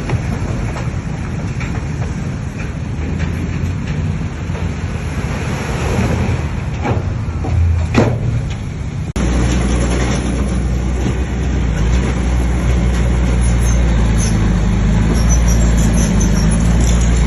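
Bulldozer diesel engine running under load, with a couple of short sharp clanks about seven and eight seconds in. After an abrupt cut about nine seconds in, a louder, steadier low engine drone.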